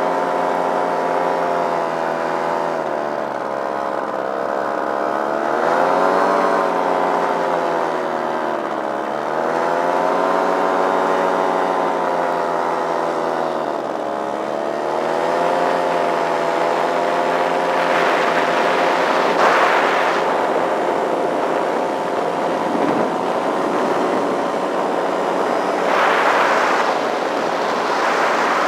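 Paramotor's single-cylinder two-stroke Simonini engine, fitted with a Nirvana Rodeo muffler and a home-made intake silencer, running steadily. Its pitch drops and comes back up three times in the first half, and a rushing noise swells twice in the second half.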